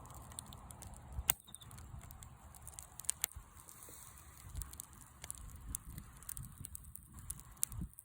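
Wood campfire burning, crackling with scattered sharp pops over a low rumble.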